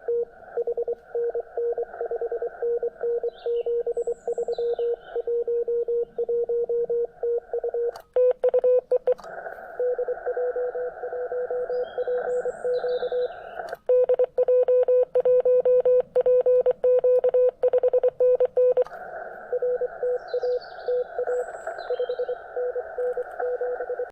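Morse code (CW) from an amateur HF transceiver: a tone near 500 Hz keyed in dots and dashes over a narrow band of receiver hiss. A stronger, harsher keyed signal comes in twice, about eight seconds in and again from about fourteen to nineteen seconds.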